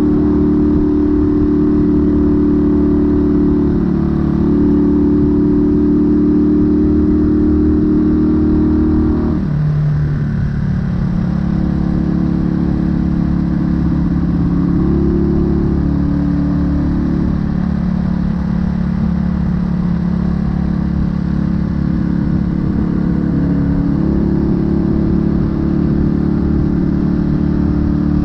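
1968 Honda Dream CD250 parallel-twin engine and exhaust under way on the road. About a third of the way in, the engine note drops sharply, then holds steady at a lower pitch with small rises and falls in revs.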